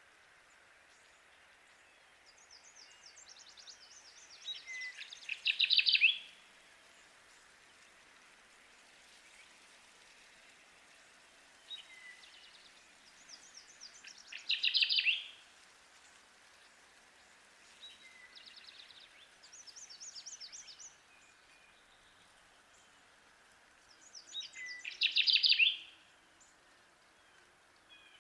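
Kirtland's warbler singing its loud, chattering song about four times, roughly every six seconds. Each song runs a string of quick high notes up to a louder closing burst. The third song is the quietest.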